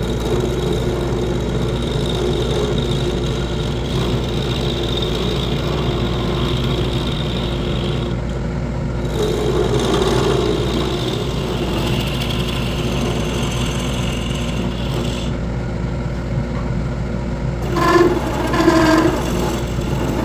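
Wood lathe running steadily with its motor hum, a changing hiss as the spinning workpiece is worked. Two short pitched squeals come near the end.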